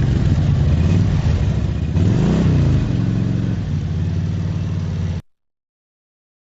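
Motorcycle engine revving twice, rising and falling in pitch, then settling into a steady idle. It cuts off abruptly about five seconds in.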